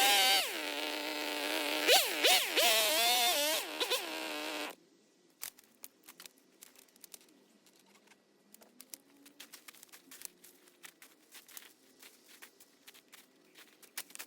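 46cc petrol chainsaw running, its buzzing pitch rising and falling as it is revved through the cut, then stopping abruptly about five seconds in. After that there are only faint scattered clicks.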